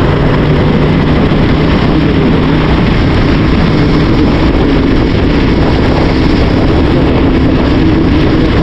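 Heavy, steady wind rush on a rider-worn microphone over a CF Moto 450SR's parallel-twin engine running at an even speed while riding.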